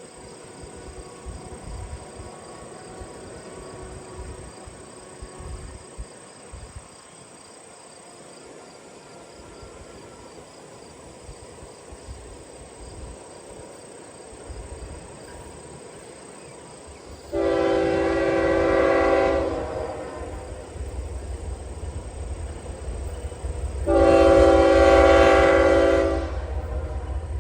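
Locomotive air horn sounding two long blasts of a multi-tone chord, several seconds apart, as a train approaches. A low diesel rumble builds underneath from about two-thirds of the way in.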